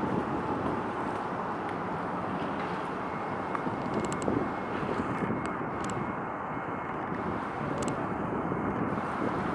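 Steady outdoor rumble with wind noise, and a faint thin whine from about three seconds in.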